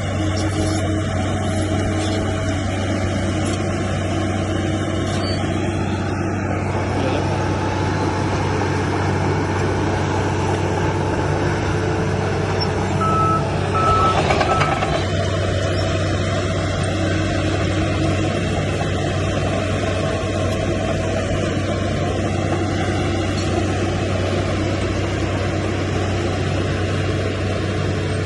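Heavy diesel earthmoving machinery running steadily with a deep engine hum. About halfway through, a reversing alarm gives three short high beeps, and a brief louder rush of noise follows.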